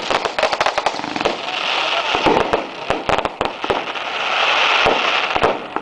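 Fireworks going off in a pyrotechnic show: a dense run of rapid crackling bangs over a steady fizzing hiss.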